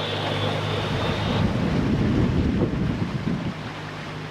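Boat underway with its engine running in a steady low hum, water rushing past the hull and wind buffeting the microphone, strongest from about a second and a half to three and a half seconds in. A faint high thin whine stops about a second and a half in.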